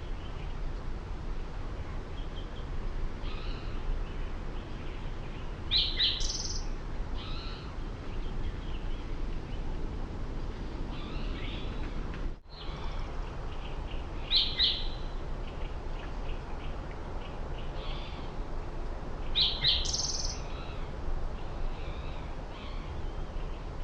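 Small wild birds chirping: short high chirps in clusters about every six seconds with fainter calls in between, over a steady low background rumble. The sound drops out for an instant about halfway through.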